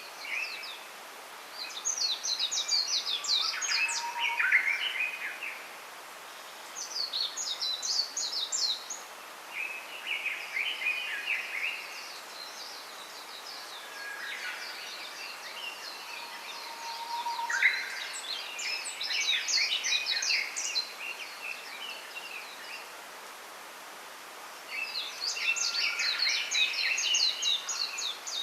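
Wild songbirds singing: bursts of rapid, high twittering notes a few seconds long, repeating five or six times with short gaps, over a faint steady hiss.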